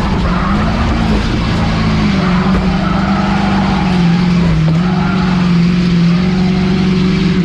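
Race car's engine heard from inside the cockpit, held at high, nearly steady revs on the oval. Its pitch wavers slightly and dips briefly about four and a half seconds in, over a steady rush of tyre and wind noise.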